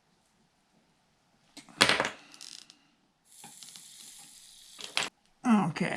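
A loud brief clatter of a part being handled, then a steady hiss for about two seconds as flux sizzles under the soldering iron while solder is melted into an XT-90 connector cup, ending with a click.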